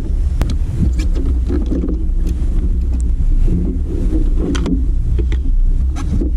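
Wind rumbling steadily across the microphone on a kayak, with scattered sharp clicks and knocks.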